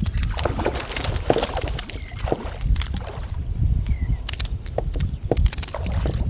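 Water sloshing and splashing against a fishing kayak, with irregular knocks and clicks on the hull and a low rumble underneath.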